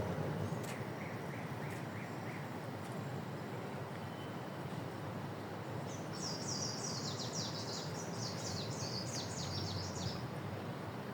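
Songbirds singing over a steady background hiss: a short run of about half a dozen chirps about a second in, then a fast, high trill of rapidly repeated falling notes lasting about four seconds.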